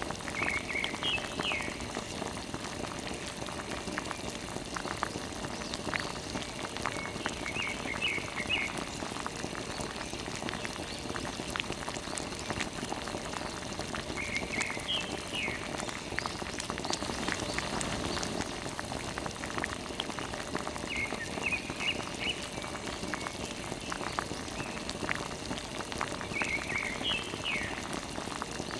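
Steady spattering and splashing of water, like a small water pump spraying a stream. A short high chirping call repeats about every six to seven seconds.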